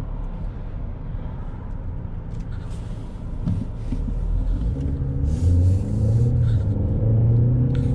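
Car engine and road noise while driving, getting louder about four seconds in as a low engine hum rises in pitch with acceleration.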